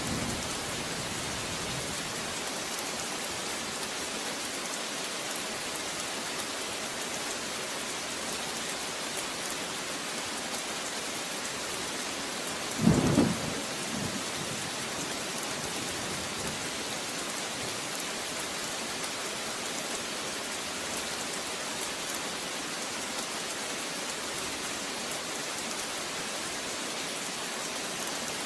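Steady rain falling, an even hiss throughout, with one brief loud thunderclap about halfway through.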